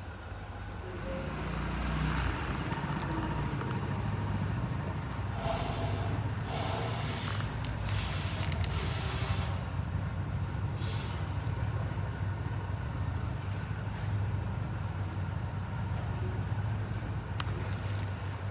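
Suzuki TL1000S's litre-class 90-degree V-twin engine running with a steady low rumble, louder from about two seconds in, with a few short bursts of hiss in the middle.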